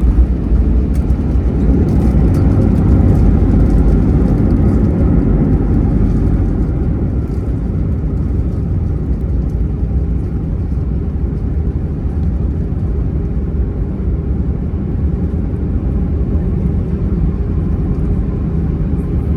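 Cabin noise of an Airbus A320 on its landing rollout: loud engine noise and runway rumble, easing off after about six seconds as the aircraft slows.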